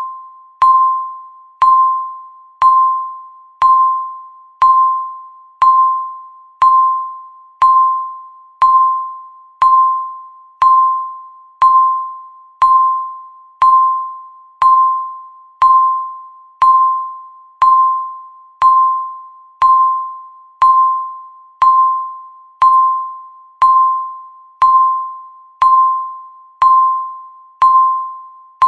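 Countdown timer's electronic beep sounding once every second, each a single clear tone that starts sharply and fades away before the next.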